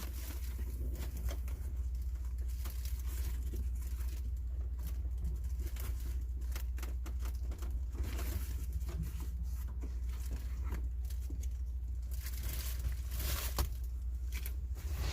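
Scattered light rustling, crinkling and small clicks of hands handling material, over a steady low hum.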